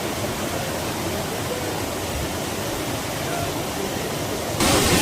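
Waterfall: a steady rush of falling water. It abruptly gets louder and hissier near the end.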